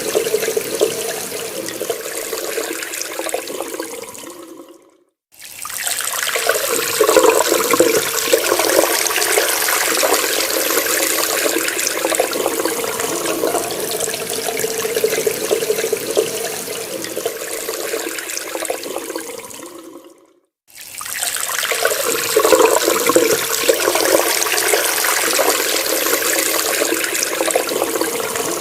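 Water running from a tap in a steady rush. Twice, about five seconds in and again about twenty seconds in, it fades away to a moment of silence and then comes straight back.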